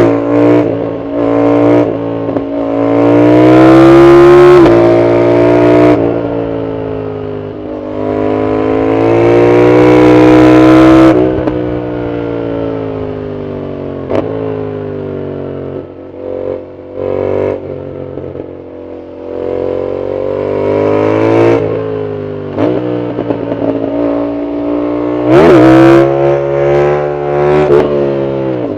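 Yamaha MT-07's parallel-twin engine through an aftermarket full exhaust, pulling hard several times with its pitch climbing and then dropping at gear changes, easing off into quieter stretches between pulls. A few short sharp clicks come through while it is coasting.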